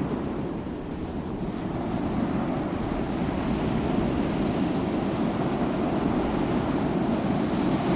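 Sea waves washing on the shore, a continuous rushing surf that eases slightly about a second in and then swells again.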